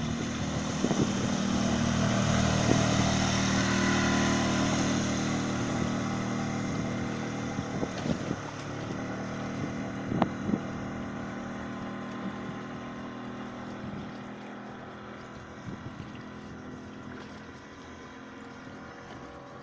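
Small outboard motor running steadily at speed on a boat, loudest in the first few seconds and then gradually fading, with wind noise on the microphone.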